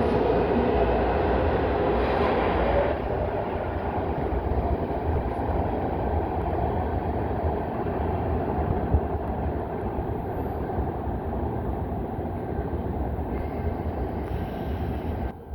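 MARTA rapid-transit train running on the rails, a steady rumble of wheels and motors. It drops a little in level about three seconds in and cuts off abruptly near the end.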